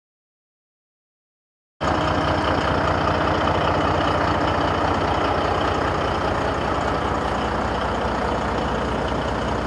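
Silence for about the first two seconds, then a truck engine starts to be heard abruptly and runs steadily at idle.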